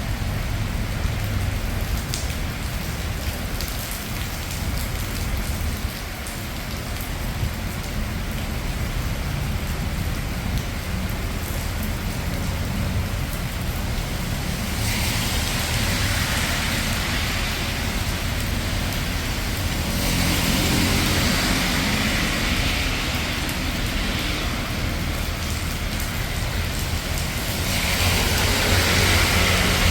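Steady rain in a city street with a low traffic rumble underneath. From about halfway through, the hiss of the rain swells louder in several stretches of a few seconds each.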